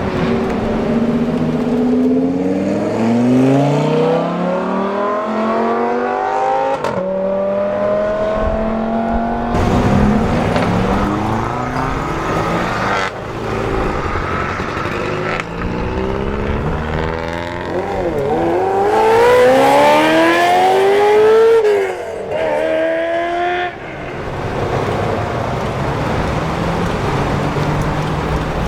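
Supercars accelerating hard one after another, engines revving up through the gears, their pitch climbing and dropping back at each shift. The loudest run climbs steeply about two-thirds of the way in and cuts off sharply, followed by lower steady engine and traffic sound near the end.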